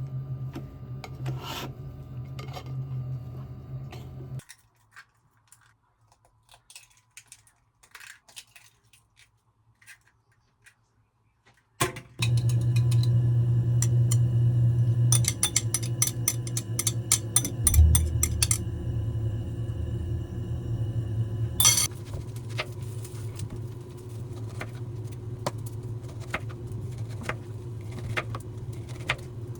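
Dishes and utensils clinking and scraping over a steady low hum, with a near-quiet stretch of faint clicks in the middle and louder clatter after it.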